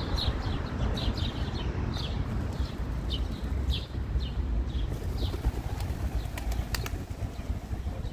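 Small birds chirping repeatedly, several short high chirps a second, over a steady low rumble of outdoor noise. A few sharp clicks come about two-thirds of the way through.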